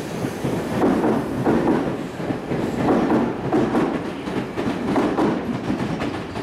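Tokyu 5050 series electric commuter train running through a station at speed, its wheels clattering rhythmically over the rail joints, about two clacks a second.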